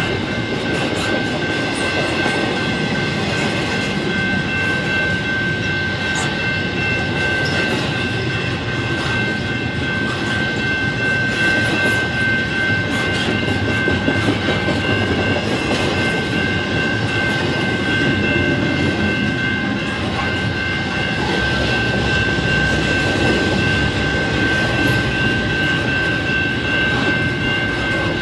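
Double-stack intermodal well cars rolling past over a grade crossing: a steady rumble of steel wheels on rail with scattered clicks and clacks from the rail joints. A General Signals Type 2 electronic crossing bell keeps ringing over it as a steady high tone.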